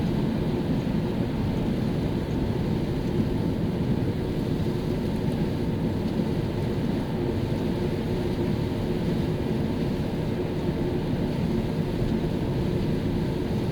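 A car cruising at a steady speed, with even engine and tyre noise on a rain-wet road.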